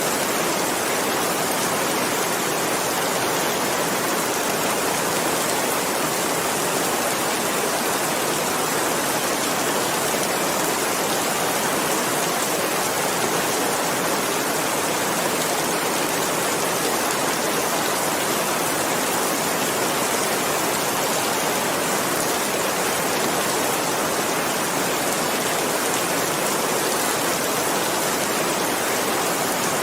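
Steady rain: an even, unbroken hiss with no single drops or changes standing out.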